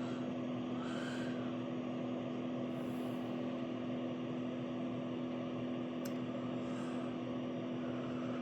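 Steady hum and whir of two small electric heaters running together off a portable power station, with an even electrical drone under a fan-like rush.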